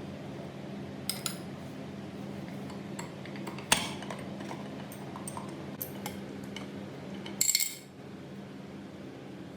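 Small metal parts and tools clinking against each other, with one sharp knock nearly four seconds in and a quick run of ringing clinks near the end, over a steady low hum.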